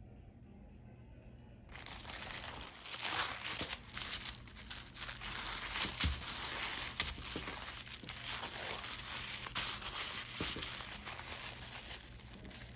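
Packaging being unwrapped by hand: crinkling and rustling with occasional tearing, starting about two seconds in.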